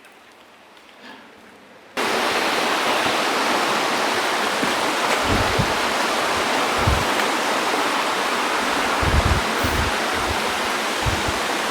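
Rushing river water, a loud steady rush that starts suddenly about two seconds in, with scattered low thumps underneath.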